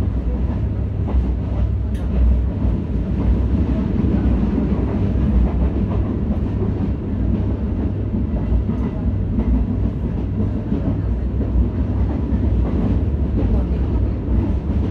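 Commuter train running along the track, heard from inside the carriage: a steady low rumble of wheels and running gear, with faint scattered clicks.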